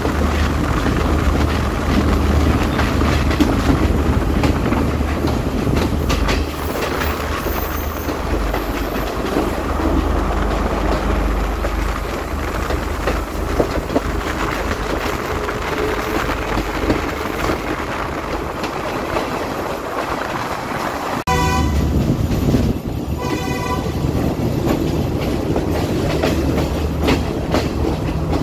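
Passenger train running, heard from an open carriage doorway: the wheels clatter over the rails under a steady low rumble. About three-quarters of the way through, the train's horn sounds briefly.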